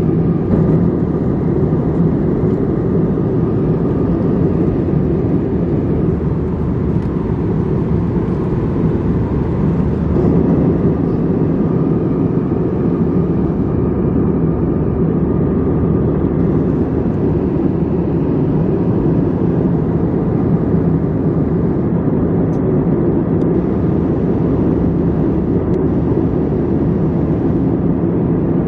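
Steady in-flight cabin noise of an Airbus A321 airliner: a low, even rush of airflow and engine drone heard from inside the passenger cabin.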